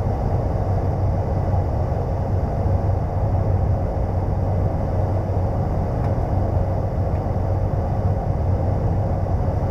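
Cockpit noise of a Cessna 208B Grand Caravan's PT6A turboprop engine and propeller on a stabilized final approach: a steady, even drone with a strong low hum and a faint steady higher tone.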